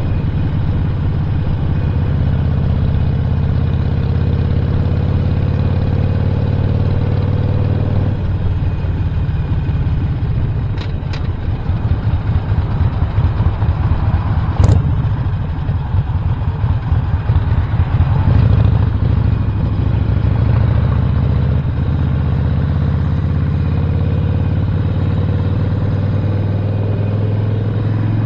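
2017 Harley-Davidson Sportster Roadster's Stage 1 1200 cc V-twin running under way. Its pitch climbs over the first several seconds, turns uneven and fluctuating in the middle with a few sharp clicks, and rises again at the end as it accelerates.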